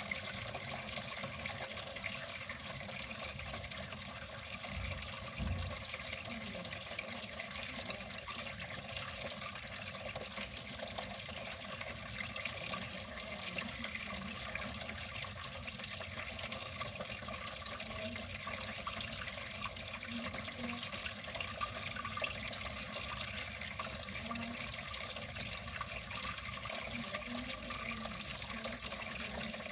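Water flowing steadily in an even, unbroken rush, with a brief low bump about five seconds in.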